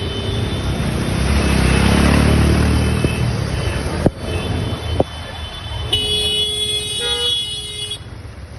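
Street traffic: a motor vehicle's engine swells and fades as it passes close, two sharp clicks follow, then a vehicle horn sounds for about two seconds near the end.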